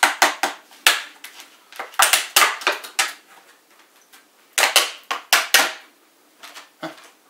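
Plastic packaging of a RAM stick being popped open: a series of sharp plastic snaps and crackles in irregular clusters.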